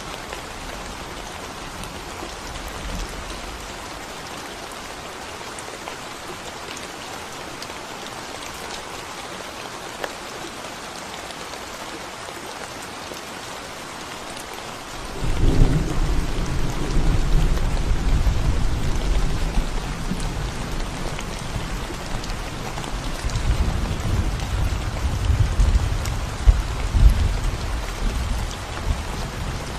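Steady rain falling on a concrete road. About halfway through, a deep rolling rumble of thunder sets in, louder than the rain, and continues.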